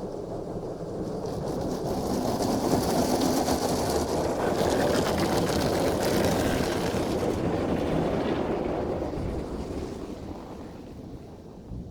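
Tammermatic T700 Lux car wash gantry working over the car, heard from inside the cabin: a rushing wash noise builds, holds loud with a bright hiss for a few seconds, then fades as the gantry moves along.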